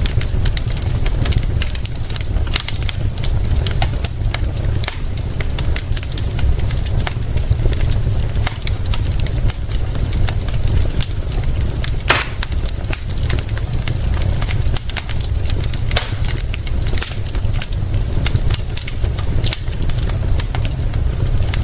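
Wood fire crackling, with sharp pops scattered throughout and one stronger pop about halfway, over a steady hiss of rain and a constant low rumble.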